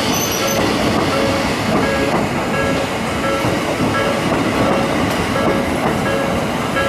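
Electric commuter train running past on the track, a loud steady rumble and rattle of wheels on rails. Behind it, a short electronic tone pulses about twice a second.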